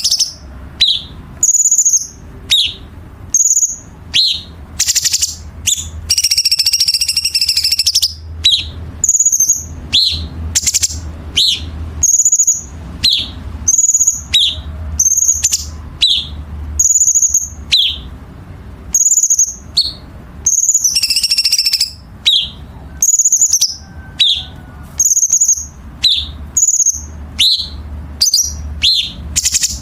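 Cucak cungkok songbird singing a dense run of short, sharp whistled notes, about one or two a second, broken by longer harsh rasping phrases near the start, about five seconds in and about twenty-one seconds in. A steady low hum lies underneath.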